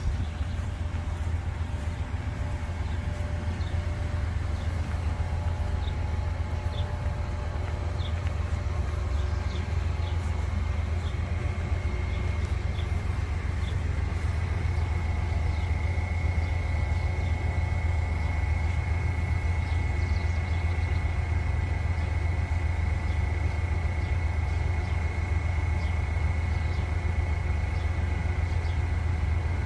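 Freight train on a mainline: a steady low rumble throughout, with a steady high whine coming in about twelve seconds in.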